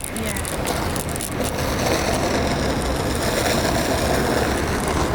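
A car driving, with steady road and engine noise and some light rattling clicks in the first second and a half.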